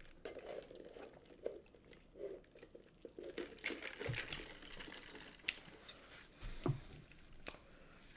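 Close-miked chewing of a Popeyes fried chicken sandwich, with light crinkling and small irregular clicks.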